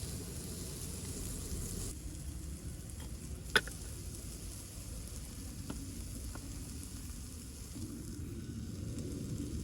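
Food sizzling as it fries in a pan, with one sharp click about three and a half seconds in.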